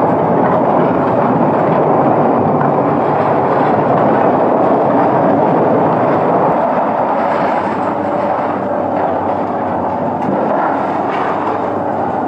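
Heavy machinery running steadily, a dense rumbling engine noise that eases a little about seven seconds in.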